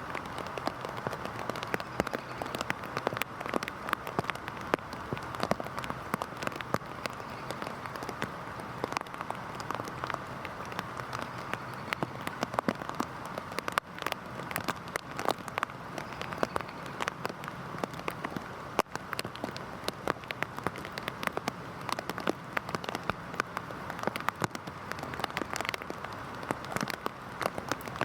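Heavy rain falling steadily, a dense hiss with many sharp drop impacts pattering on a surface close by.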